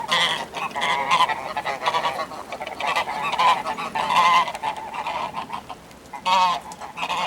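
A group of Toulouse geese honking in dense, overlapping calls. The calls ease off briefly about five seconds in, then a single short honk follows.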